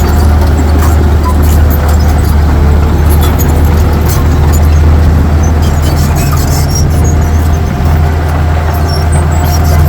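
Heavy diesel earthmoving machinery running steadily, a deep continuous engine drone with a faint steady whine above it and scattered light clicks and rattles.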